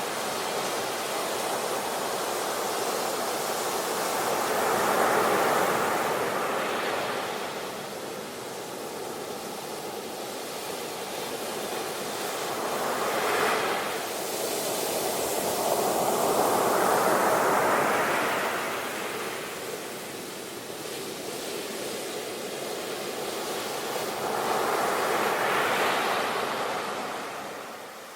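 Sea waves breaking and washing in, a steady rushing that swells and fades in four surges.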